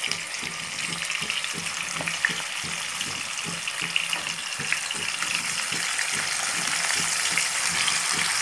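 Marinated chicken sizzling as it is dropped into hot oil and ghee with whole spices, a steady frying hiss with small crackles. The sizzle gets a little louder over the second half as more chicken goes into the pan.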